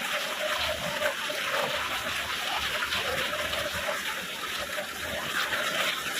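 Steady rainfall, an even hiss of many small drops.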